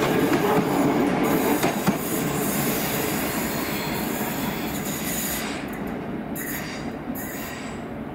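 Electric multiple-unit passenger train running along the track, its noise fading steadily over the last few seconds as it moves away.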